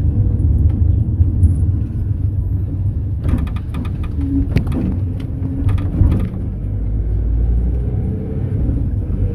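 Mercedes-Benz Sprinter minibus in motion, heard from inside the cabin: a steady low engine and road rumble, with bursts of rattling clicks about three seconds in and again around six seconds.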